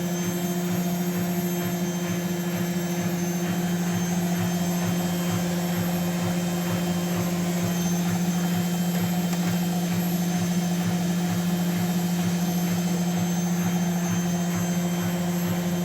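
Washing machine running late in its cycle, a steady mechanical hum with a faint low pulsing about three times a second underneath.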